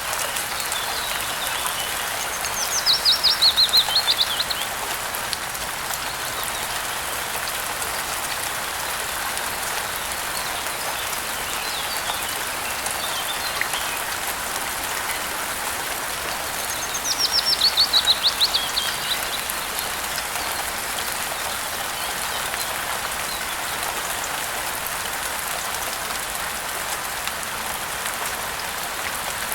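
Steady rain falling, with a songbird singing twice over it, each phrase a rapid trill of falling notes lasting about two seconds; the two phrases are the loudest sounds.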